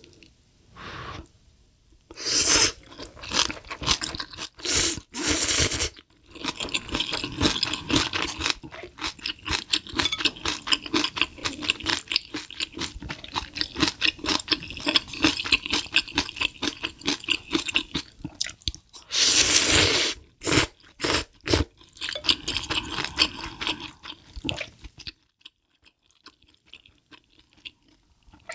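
Close-miked chewing and crunching of food, a dense run of rapid crisp clicks broken by a few louder bursts lasting about a second each.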